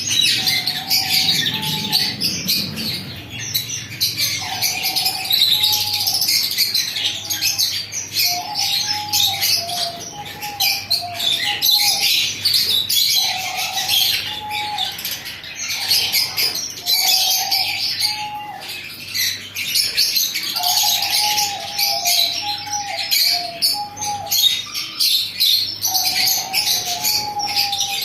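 A group of small pet parrots, lovebirds, chirping and chattering without pause, the high calls overlapping thickly, with a lower short repeated call coming in groups every few seconds.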